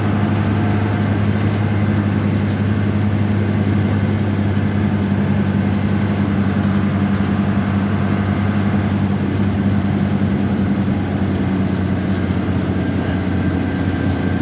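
Hino AK1J diesel engine idling steadily with a low, even hum.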